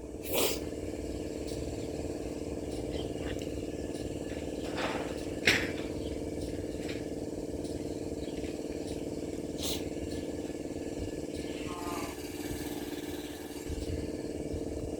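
A motor running steadily with an even hum, broken by three short sharp clicks or snaps.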